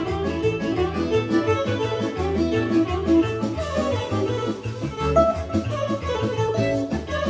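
Serbian folk dance music, a fast kolo played by a small band with violin, accordion and plucked strings over a quick, steady beat.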